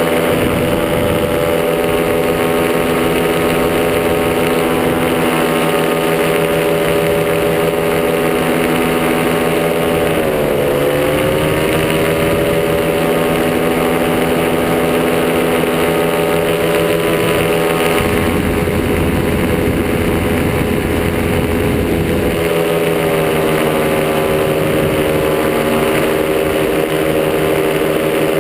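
Top80 two-stroke paramotor engine running steadily in flight, its pitch dipping briefly about ten seconds in as the throttle eases and then settling again. Wind buffets the microphone with a low rumble for a few seconds past the middle.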